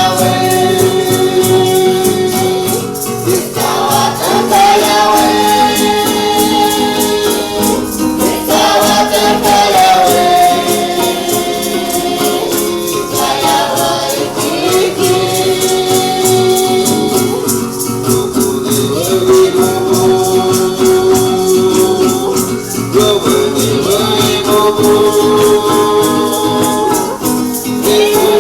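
Group of voices singing a chant together over rattles shaken in a steady beat.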